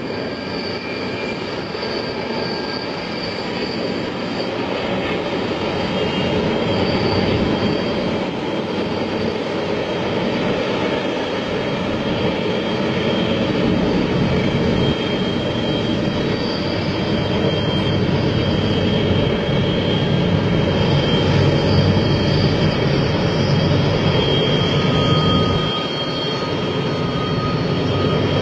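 Freight train rolling past: a steady roar of wheels on rails that slowly grows louder, with thin high whining tones coming and going.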